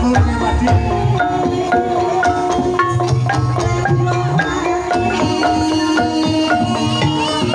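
Javanese ebeg accompaniment played live: an ensemble of tuned struck keys in a running interlocking pattern over hand-drum strokes, with some notes held ringing.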